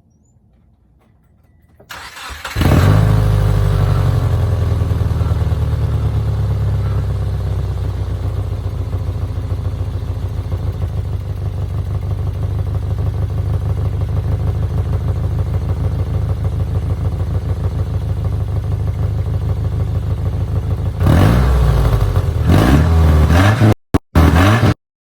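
2004 Subaru Forester 2.5X's 2.5-litre flat-four engine starting about two seconds in, then idling steadily. Near the end it is revved a few times, and the sound cuts out briefly twice.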